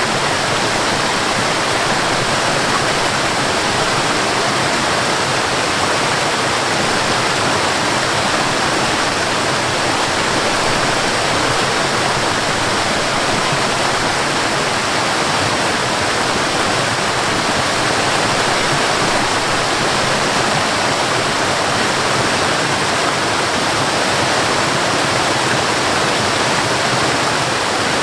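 Waterfall splashing steadily: an even, unbroken rush of falling water.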